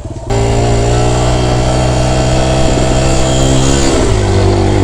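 Four-stroke single-cylinder dirt bike engine, loud and close, cutting in suddenly and pulling at steady revs, then dropping in pitch and settling about four seconds in.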